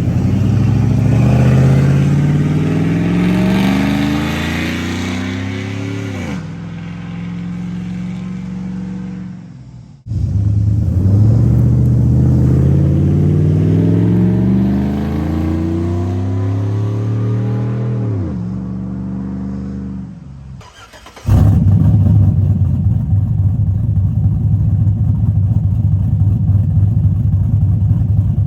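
Cammed 5.3-litre V8 of a GMC Sierra pickup running through short burnt-tip muffler tips. It accelerates twice, the pitch climbing for several seconds and then dropping away sharply each time, and ends with a steady drone.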